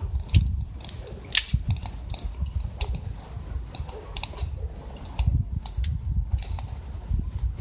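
Wood fire crackling in a camp stove: irregular sharp pops and snaps, a few a second, over a low rumble.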